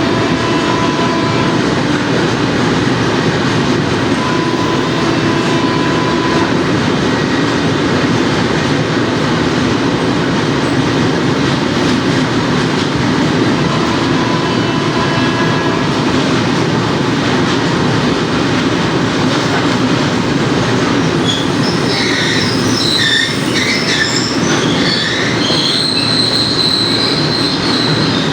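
Goods train behind a WAG-5 electric locomotive rolling past with a steady rumble of wheels on the rails. From about three-quarters of the way through, high-pitched wheel squeal comes in.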